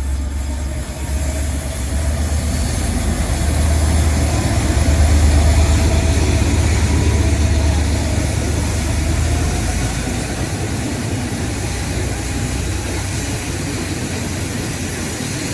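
A train passing close by: a heavy low engine rumble that builds to its loudest in the middle and then eases off, with a faint whine sliding in pitch as it goes past.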